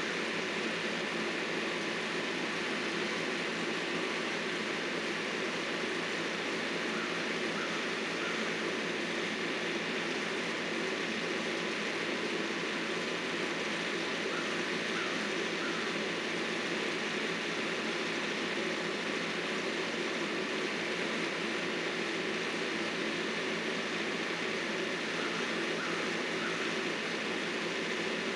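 Engine of heavy landscaping equipment running steadily, a constant even noise with no changes in speed.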